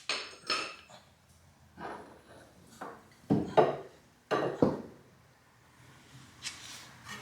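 Metal tools and parts clinking and knocking, a string of about nine separate sharp hits, loudest a little past the middle.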